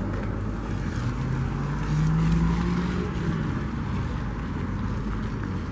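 A car engine running nearby. Its pitch rises about a second in and falls away after about three seconds, over a steady low rumble.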